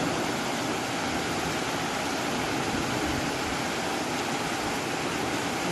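Steady rushing of fast-flowing floodwater, an even noise without breaks.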